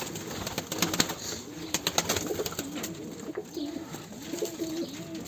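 Domestic pigeons cooing, with repeated low, rolling coos, and a few sharp clicks about one to two seconds in.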